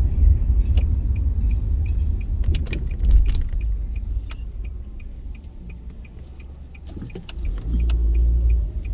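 Low road rumble of a car being driven, heard from inside the cabin, with light clicks and rattles. The rumble eases off for a couple of seconds past the middle and picks up again near the end.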